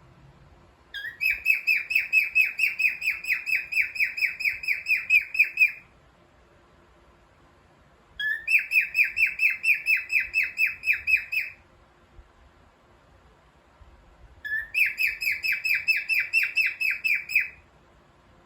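A cockatiel calling in three bouts of rapid repeated chirps, about five notes a second. Each bout opens with a short rising note and runs for three to five seconds before stopping.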